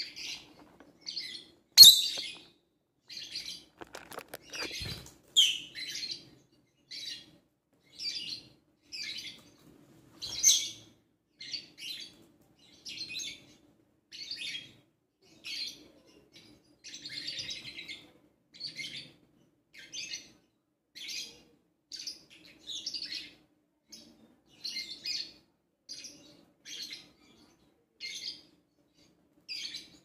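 Small birds chirping in short clusters of calls, repeated about once a second. A sharp click about two seconds in is the loudest sound.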